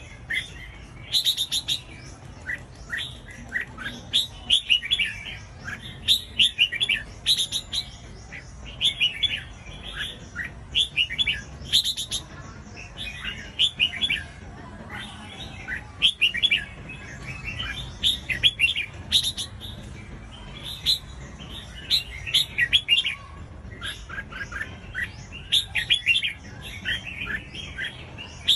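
Red-whiskered bulbul singing: short, bright, warbling phrases of chirpy notes, repeated every second or two.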